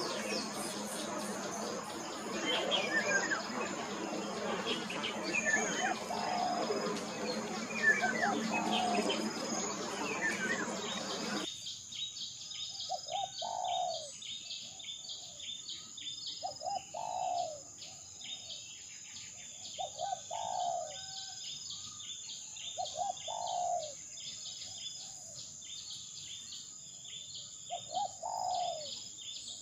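Birds chirping over a rushing background hiss. About eleven seconds in, the sound cuts to a quieter stretch where a bird repeats a short falling call roughly every three seconds, over many faint high chirps and a steady high-pitched whine.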